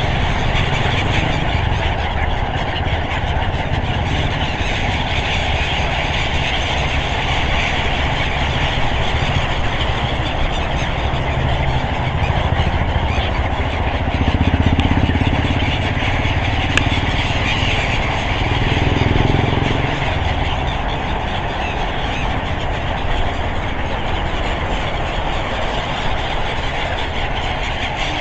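Steady road traffic: engines and tyres running continuously, with vehicles passing closer and louder about halfway through and again a few seconds later.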